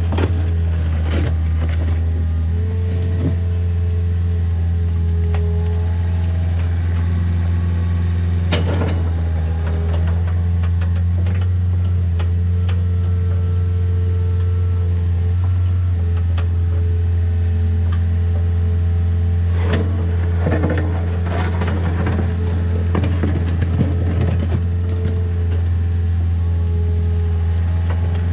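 Diesel engine of a mini excavator running steadily. Occasional knocks stand out, about a third of the way in and twice about two-thirds through.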